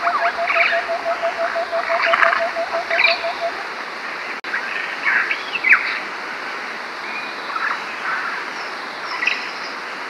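A chorus of wild birds chirping and calling. In the first three and a half seconds it includes a fast, even series of low notes, about five a second. All of it sits over a steady hiss.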